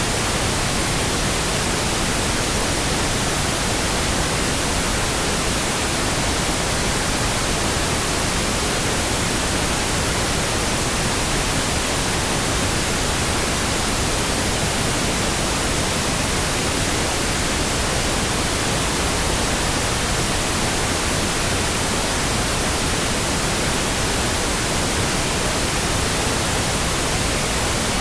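Steady, unchanging pink noise: an even hiss with nothing else in it.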